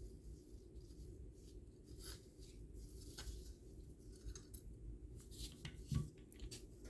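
Small clicks and scrapes of hand tools and plastic or metal parts being worked while an espresso machine is taken apart, with one louder knock about six seconds in.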